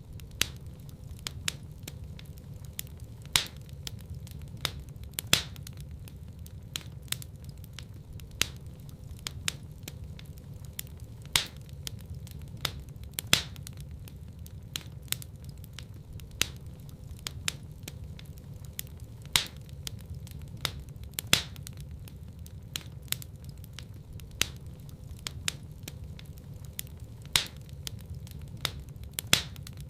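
Wood fire burning in a fireplace: irregular sharp crackles and pops, a few louder snaps every couple of seconds, over a steady low rumble of the flames.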